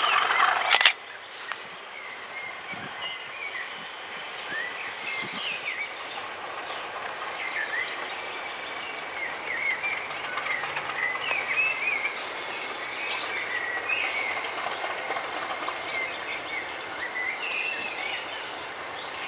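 Birds chirping and singing repeatedly over a steady outdoor background. A loud noise cuts off abruptly about a second in.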